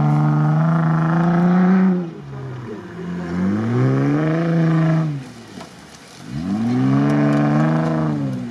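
Jeep Wrangler's engine revving hard as it is driven through loose sand: the revs climb, hold and drop back three times, with a short lull about six seconds in.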